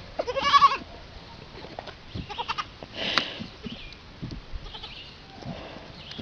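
An animal gives one wavering, bleat-like call about half a second in, followed by scattered light knocks and rustling.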